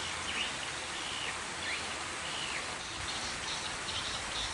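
A few short bird calls, each a quick curved chirp, over a steady hiss of outdoor background noise.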